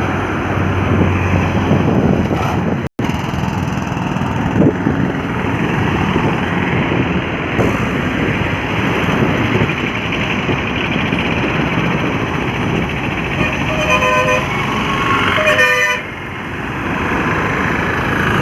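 Heavy trucks passing on a highway, a steady din of engines and tyres. Near the end a truck horn sounds twice, the second time as a rapid warbling honk.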